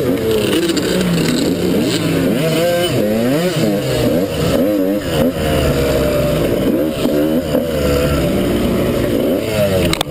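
Dirt bike engine being ridden, its revs rising and falling repeatedly as the throttle is worked.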